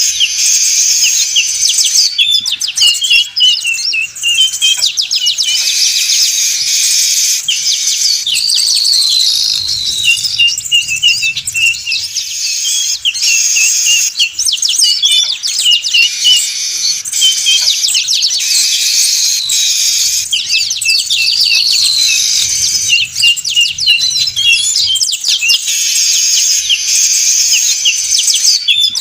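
Dense, continuous chattering and twittering of a flock of weaver birds (manyar), used as a bird-lure recording. The same passage, with a falling whistle, comes round about every twelve seconds, as a looped track does.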